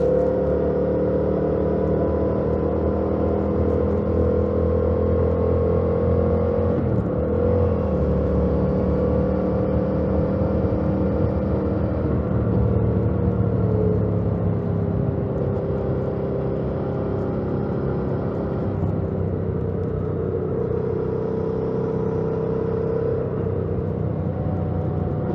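2018 Yamaha MT-07's 689 cc parallel-twin engine running through its stock exhaust while riding. The engine note holds steady, wavers briefly about seven seconds in, eases a little in pitch past the middle, and rises again near the end.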